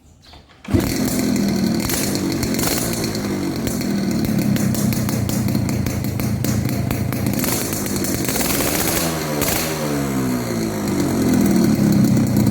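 Yamaha RX-King two-stroke single-cylinder engine running through its stock exhaust fitted with a brass Maestro baffle insert. The sound comes in suddenly about a second in, runs steadily, then the engine speed drops and climbs again near the end.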